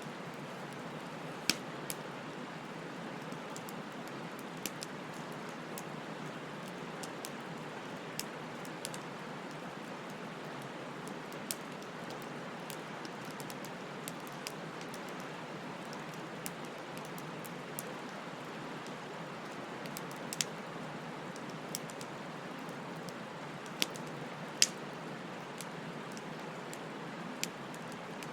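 Wood bonfire burning: a steady hiss of flame with sharp crackles and pops every second or two, a couple of them much louder snaps.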